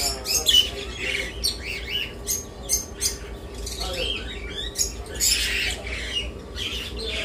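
Many caged birds chirping and squawking in a busy chatter of short high calls, several a second.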